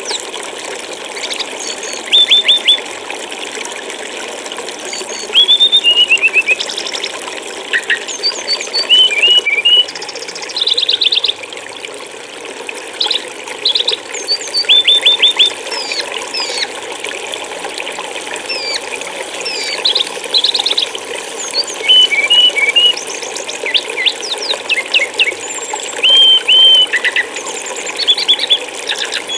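Steady trickle of flowing water with a small songbird calling over it: short high chirps, quick trills and downward-sliding notes repeated every second or two.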